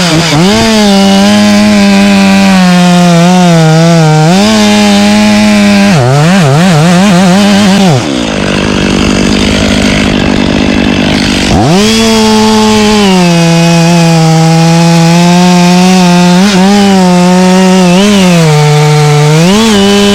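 Chainsaw running at full throttle in a cut, its pitch sagging and recovering as the chain loads in the wood. About eight seconds in it drops to idle for a few seconds, then revs back up and cuts again.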